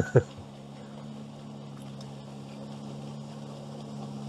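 Amphibious all-terrain vehicle's engine running steadily in deep water, a constant low hum that grows slightly louder, after a short loud sound right at the start.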